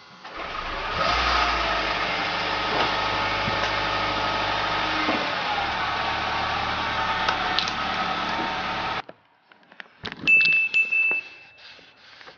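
Honda Civic's engine running close by. It swells over the first second, holds steady, then cuts off abruptly about nine seconds in. Near the end come a few sharp clicks and a short high beep.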